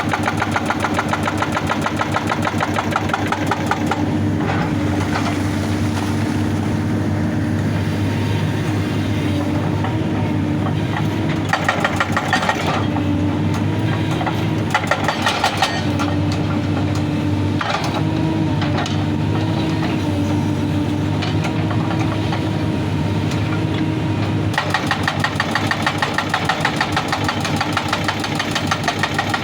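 Excavator's diesel engine running steadily while its hydraulic rock breaker hammers on rock in a fast rattle, first for about four seconds, then in short bursts, and again for the last five seconds.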